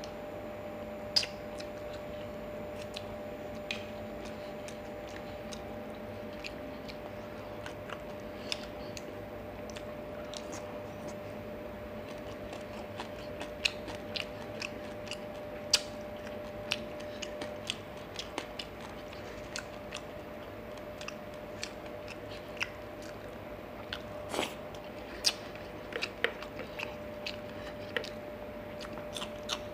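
Close-miked eating of fried fish and rice by hand: chewing and crunching with many short, sharp mouth clicks and smacks scattered through, busier in the second half, over a steady faint hum.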